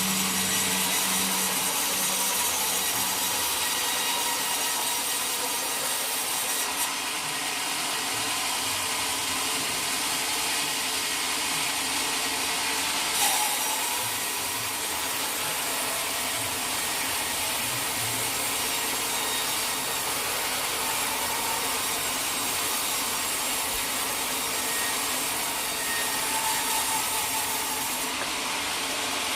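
A sawmill saw cutting steadily through a teak log, an even high-pitched rasping hiss, with one brief knock about thirteen seconds in.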